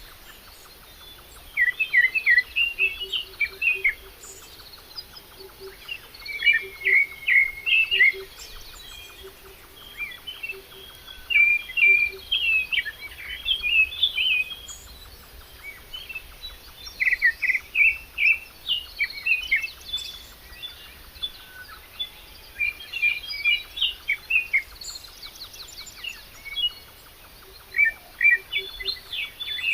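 Songbirds singing: bursts of quick, high chirping phrases every second or two, with a faint low note repeating underneath.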